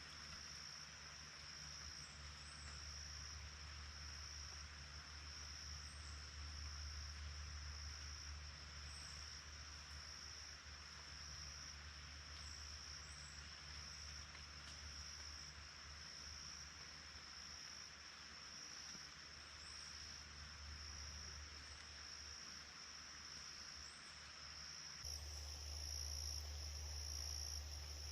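Faint, steady chorus of night insects such as crickets, a constant high-pitched trill, over a low hum.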